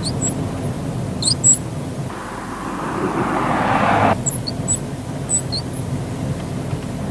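A squeak in a Volkswagen: short, high-pitched chirps coming in clusters of two or three every second or few, over the steady noise of the car.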